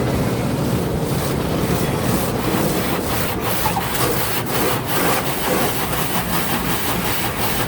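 Automatic car wash brushes scrubbing over the car, heard from inside the cabin: a steady rubbing and swishing with irregular slaps against the body.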